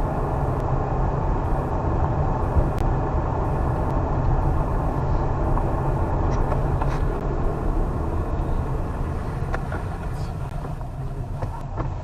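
Steady road and engine rumble of a moving car as picked up by a dashcam, with a few faint ticks in the second half.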